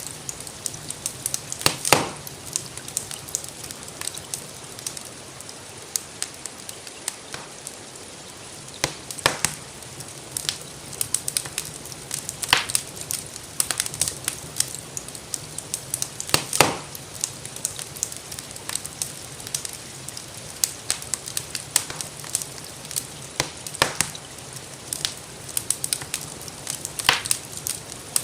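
Wood fire crackling, with frequent small snaps and a handful of louder pops every few seconds, over a steady hiss of rain.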